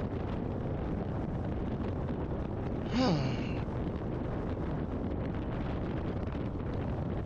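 Steady wind rush on a motorcycle rider's helmet com-unit microphone while riding. About three seconds in the rider makes one short vocal sound that falls in pitch, like a sigh.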